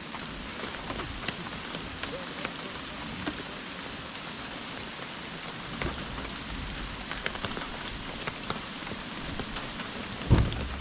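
Steady rain hiss with scattered drops ticking close to the microphone, and a dull thump near the end.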